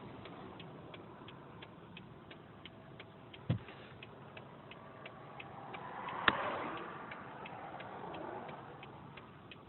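Car turn-signal indicator ticking steadily at about three clicks a second. There is a single low thump about three and a half seconds in, and a sharper click a little after six seconds over a brief swell of road noise.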